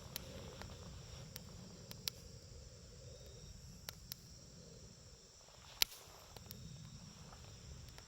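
Wood campfire burning: scattered sharp crackles and pops over a low steady rumble, the loudest pop about six seconds in.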